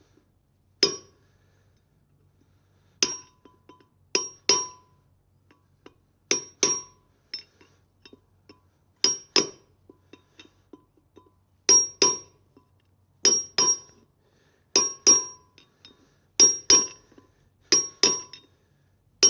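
Hammer blows driving a wheel bearing race into a Land Rover Defender 90 hub: sharp, ringing metal-on-metal strikes, mostly in quick pairs, coming more often toward the end.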